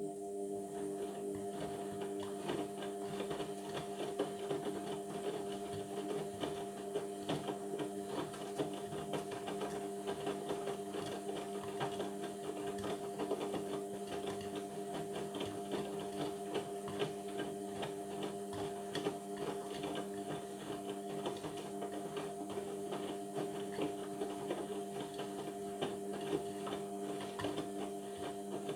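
Indesit washing machine running mid-cycle on a Cotton 60 programme: a steady motor hum with a rattling, clicking texture. It switches on abruptly at the start.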